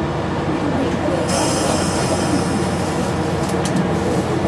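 Torokko open-air observation car of a sightseeing train running on rails with a steady rolling rumble; about a second in, a high-pitched wheel squeal sets in and holds.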